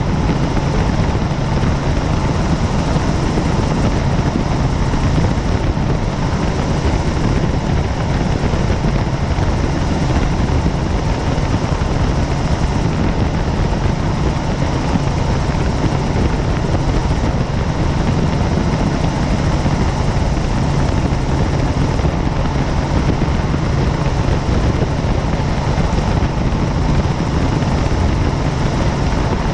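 Helicopter in flight: a steady drone of rotor and engine noise that holds unchanged throughout.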